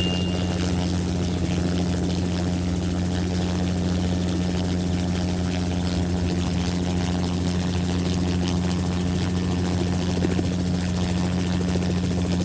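Steady mechanical engine drone with a low hum, holding unchanged throughout.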